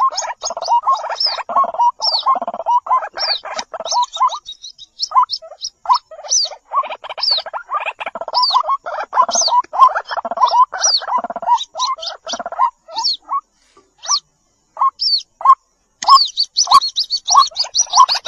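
White-breasted waterhen chicks calling: rapid runs of lower notes with thin high chirps above them, breaking off briefly twice.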